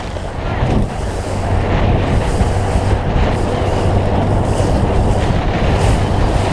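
Wind buffeting the microphone on a boat under way, over a steady low motor drone and water noise.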